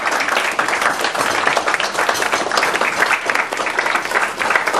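A room full of people applauding, many hands clapping steadily and densely throughout.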